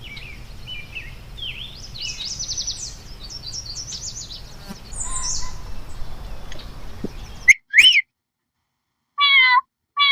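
Small songbirds chirping and singing over a steady outdoor background hum. About three quarters through, the background cuts off suddenly, and two sharp calls and then two short wavering whistled calls sound on their own against silence.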